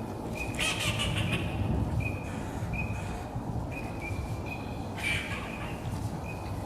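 A bird calling: a short, high, steady note repeated about nine times at uneven intervals, over a low rumbling background noise.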